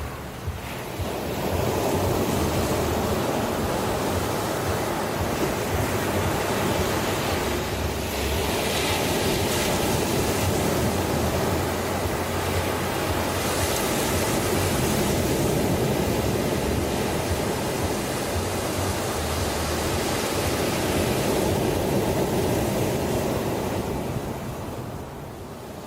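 Ocean waves breaking and washing on a shore: a steady roar of surf that swells up about a second and a half in, holds with slow surges, and ebbs away near the end.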